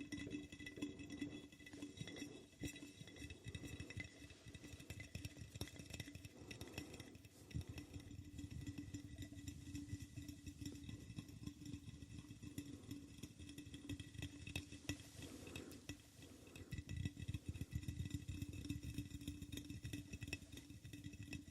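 Rapid, soft ASMR tapping on objects, a dense stream of quick taps with busier stretches, over a faint steady ringing hum.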